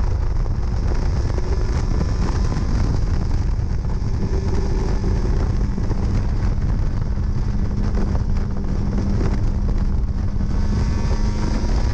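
1968 MG Midget race car's four-cylinder engine running under steady acceleration, with a held engine note settling in about four seconds in. Heard from the open cockpit, with wind buffeting on the microphone.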